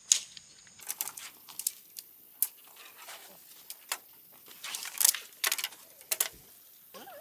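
Camping gear being handled: an irregular run of sharp clicks and rattles, loudest about five seconds in, over a thin steady high-pitched tone.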